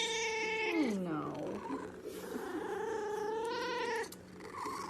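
Domestic cat meowing in two long, drawn-out calls: the first falls in pitch and fades about a second and a half in, the second is held fairly steady for about two seconds.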